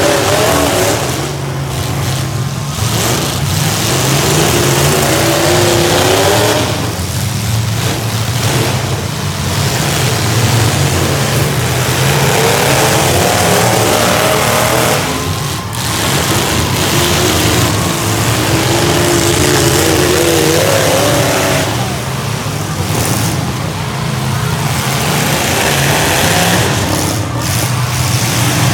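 Several V8 demolition derby car engines revving hard together, their pitch rising and falling unevenly over a loud, continuous wash of engine noise.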